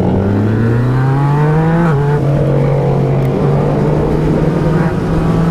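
A Yamaha MT-09 SP's inline three-cylinder engine, breathing through an Akrapovič exhaust, pulling hard with the pitch climbing. About two seconds in the pitch drops suddenly at an upshift, then the engine holds steady before it starts to rise again near the end.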